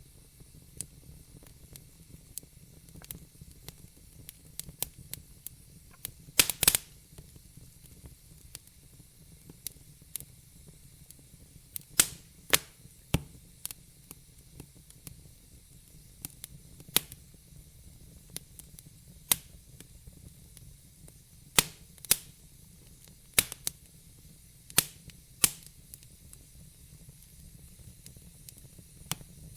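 Wood fire burning in a fireplace: sharp, irregular crackles and pops over a low, steady rumble and faint hiss. A quick cluster of loud pops comes about six seconds in, and more scattered pops follow in the second half.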